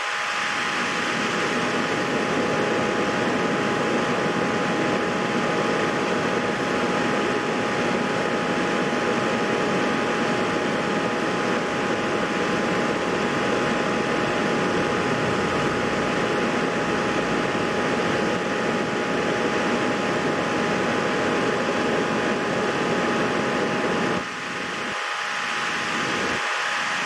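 Steady whooshing machine noise, like a fan running, with a faint steady whine over it; the lowest part of the noise drops out for a moment about three seconds before the end.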